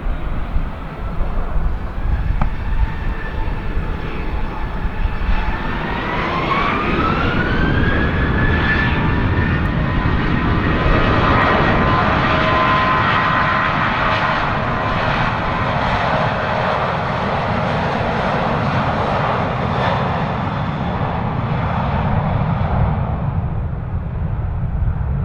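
Boeing 737-800 jet engines spooling up to takeoff thrust: a whine glides up in pitch about six seconds in, then the jet roar of the takeoff roll swells, stays loud through the middle and fades near the end.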